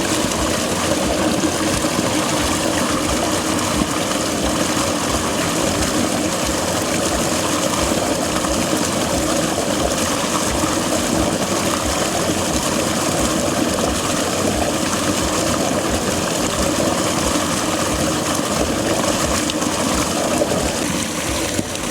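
Fast stream of water rushing under a crust of ice and churning over a small waterfall: a steady, unbroken rush.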